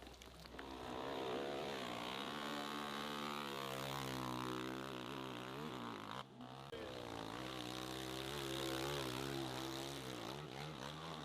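Motorcycle engine revving hard under load on a steep hill climb, its pitch rising and falling with the throttle, with a brief drop about six seconds in.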